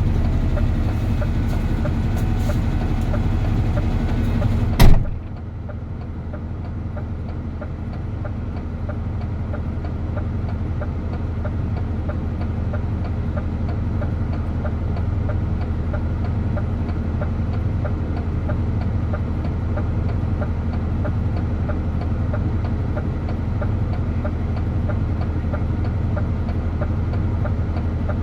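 DAF truck's engine running in a steady low drone while driving. A single sharp click comes a little under five seconds in, after which the sound is duller.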